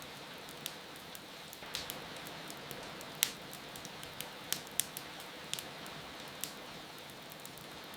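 Wood fire crackling, with sharp pops at irregular moments, over a steady hiss of rain.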